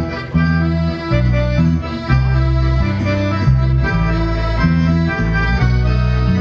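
Instrumental passage of a Polish folk song led by an accordion, a melody of held reedy notes over bass notes that change about twice a second.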